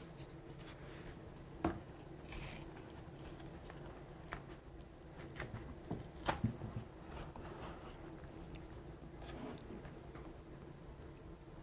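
Scattered soft clicks and crinkles of a milk container being handled and opened, ready for pouring.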